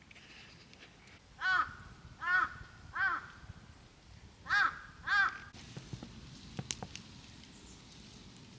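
A crow cawing five times: three caws, a short pause, then two more. A few light clicks follow.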